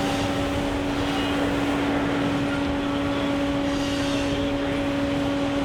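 Machinery running steadily: a held, droning low tone over an even noisy wash.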